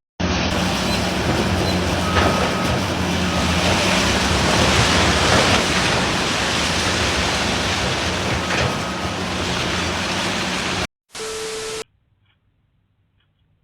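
Steady rushing road and wind noise with a low engine hum from a moving vehicle, which cuts off abruptly near the end; a brief steady tone follows, then near silence.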